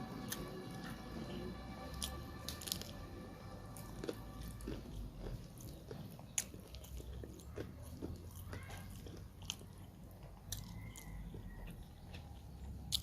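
Close-miked eating sounds: chewing and biting into chicken curry and rice, with wet mouth clicks and occasional sharp crunches.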